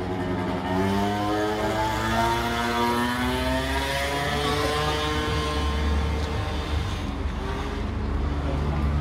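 A motor vehicle's engine running, its pitch rising over the first few seconds and then levelling off, over a steady low hum.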